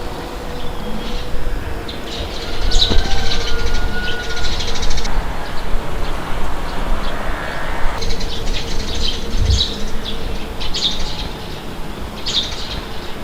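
Wind blowing with a steady low rush, and birds chirping over it in short clusters of quick high notes.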